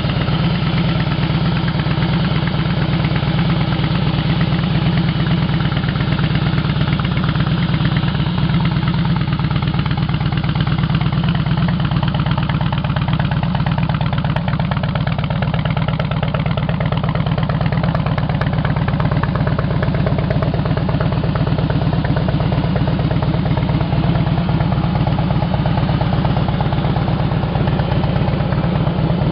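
2007 Harley-Davidson Softail Deluxe's Twin Cam 96B V-twin idling steadily.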